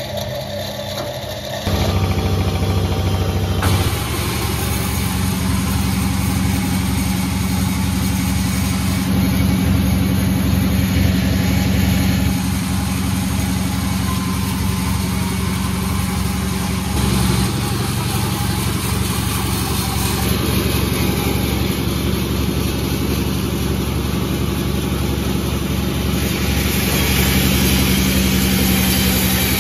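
Sawmill engine running steadily, with a constant low hum and a noisy upper layer, and changes in its sound about 2 s, 4 s and 17 s in.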